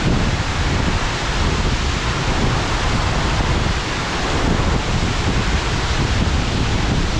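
Waterfall pouring, a loud, steady rush of falling water, with wind buffeting the microphone in an uneven low rumble.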